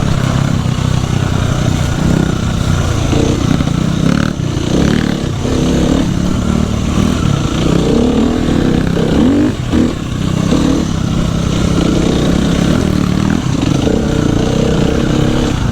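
Dirt bike engine running hard along a trail, the pitch rising and falling repeatedly as the throttle is opened and closed.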